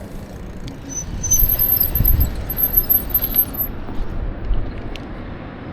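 Wind rumble on the microphone of a moving bicycle, with a run of thin, very high-pitched squeaks for about two seconds from a second in.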